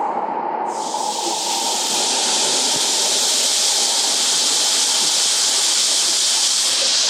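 Waterfall rushing steadily: a loud, even hiss of falling water that grows brighter about a second in.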